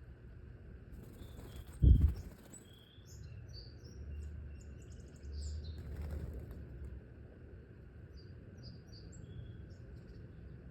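Small birds chirping, many short high calls scattered through most of the stretch. A sudden loud low thump about two seconds in, and a low rumble of wind on the microphone around the middle.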